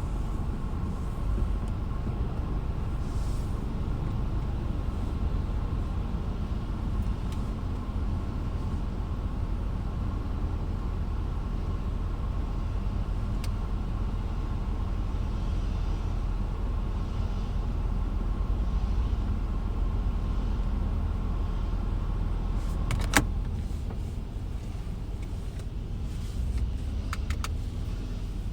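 Car running in a low, steady rumble, with a single sharp click about 23 seconds in.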